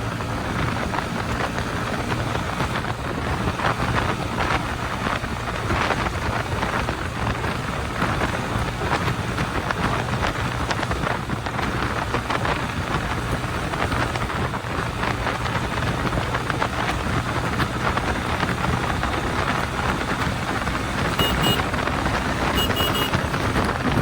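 Bajaj Pulsar NS160's single-cylinder engine running through a cheap makeshift exhaust while the bike is ridden at a steady pace. The loud exhaust note is mixed with wind rushing on the microphone.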